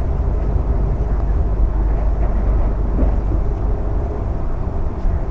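Light-rail train car running along the track, heard from inside the car as a steady low rumble.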